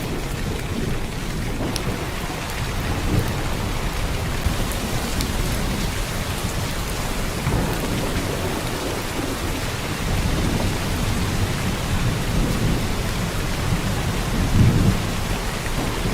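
Heavy rain pouring down in a steady hiss, with low rumbling swells underneath, the strongest about fourteen seconds in.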